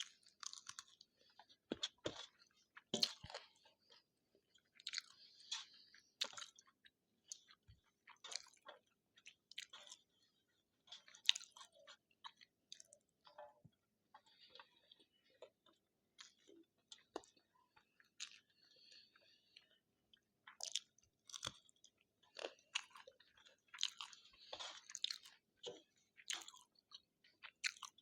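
Close-miked chewing of jeera rice and spicy aloo bhaji: irregular wet mouth clicks and small crunches with short pauses between mouthfuls.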